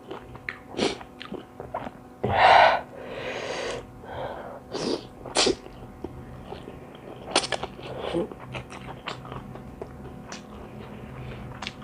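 Mouth sounds of someone eating spicy noodles: scattered wet chewing and biting clicks, and about two and a half seconds in one loud burst of breath, followed by a softer hiss.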